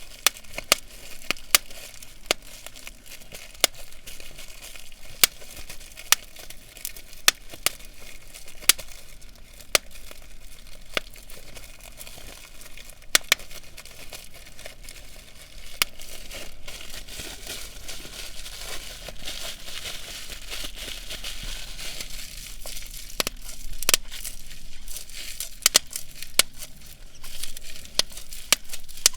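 Plastic bubble wrap being crinkled and popped: sharp pops every second or so over continuous crinkling, which grows louder about halfway through.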